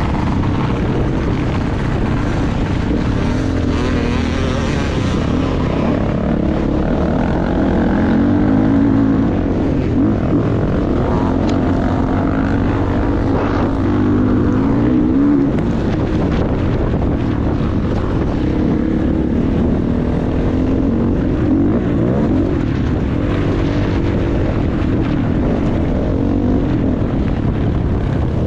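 Motocross bike engine revving up and down as it is ridden round the track, its pitch rising and falling over and over.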